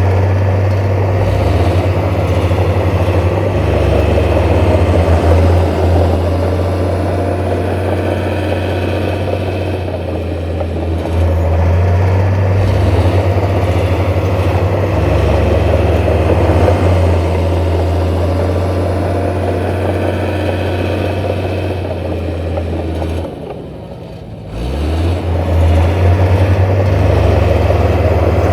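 Heavy diesel engine of earthmoving machinery running steadily, its pitch shifting a little as it works. Near the end it drops off briefly, then revs back up.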